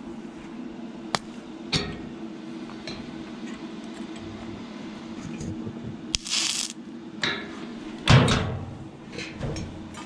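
Steady low machine hum with scattered sharp metallic clicks and a couple of short scraping bursts as a fresh 6011 welding rod is handled between welds, with no arc running.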